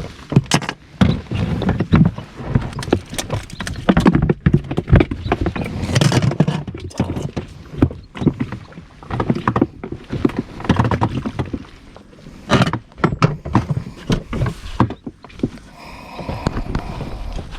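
A hooked fish thrashing against an inflatable boat: irregular thumps, slaps and splashes, thickest in the first half and again about twelve seconds in.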